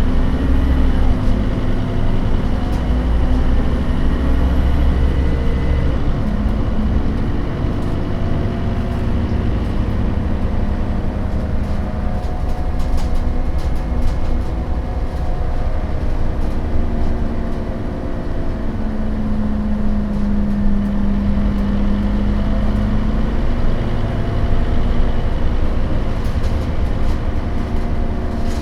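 A 2008 Scania K270UB bus running under way: the Scania DC9 five-cylinder turbodiesel and ZF Ecomat automatic gearbox, its pitch shifting up and down several times. A strong steady whine stands out for a few seconds past the middle.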